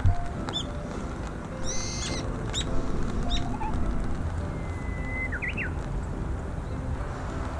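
Wild birds calling: a few short high chirps in the first half, then a held whistle that breaks into quick rising notes about five seconds in, over a steady low rumble.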